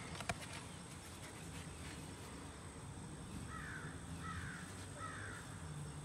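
Three short harsh bird calls in a row, a little under a second apart, in the second half. Near the start there is a light scrape and click of soil as a gloved hand digs into loose dirt.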